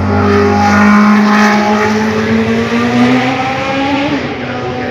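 Historic Formula One car engine running at high revs, its pitch climbing steadily for about three seconds, then dropping about four seconds in.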